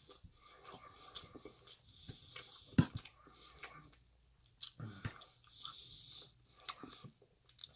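A person chewing a mouthful of chicken close to the microphone: soft, irregular mouth clicks, with one sharp click, the loudest, a little before three seconds in.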